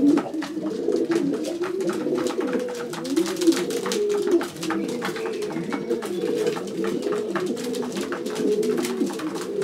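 A loft full of racing pigeons cooing, many birds overlapping in a continuous chorus of rising-and-falling coos, with scattered light clicks and taps among them.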